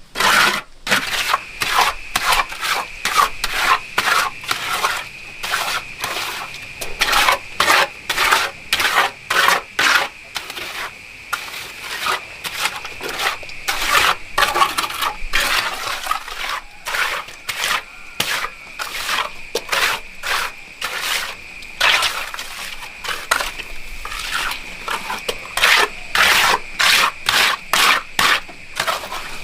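A hand tool scraping over and over on a hard, gritty surface, in quick strokes of about two a second with brief pauses, while a steady high faint tone runs underneath.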